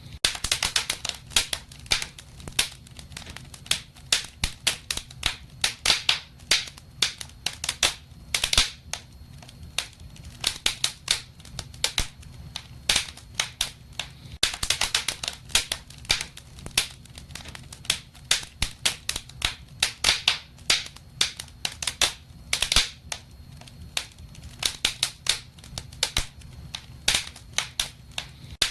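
Wood fire in a fireplace crackling: dense, irregular pops and snaps over a low steady rumble of the flames.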